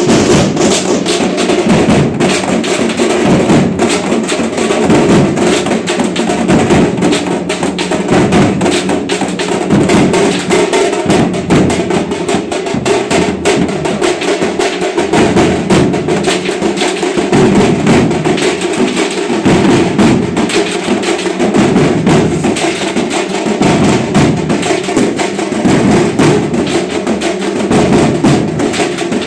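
Loud, fast drumming: a dense, unbroken run of rapid percussive strikes.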